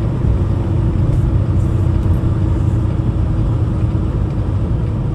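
Steady low rumble of a Peterbilt 579 semi truck on the move: engine drone and road noise heard inside the cab.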